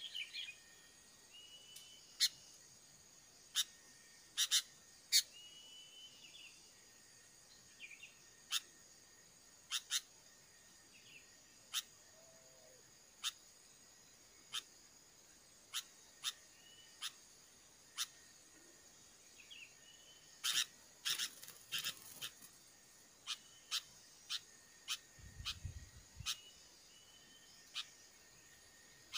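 Small birds calling with sharp, short chips, roughly one a second and coming thicker for a moment about two-thirds of the way through, with a few short whistled notes, over a steady high insect drone.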